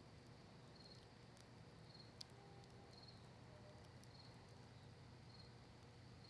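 Faint night ambience: a cricket chirps about once a second, evenly spaced. Sparse soft crackles come from a cedar and maple wood fire, with one sharper pop about two seconds in.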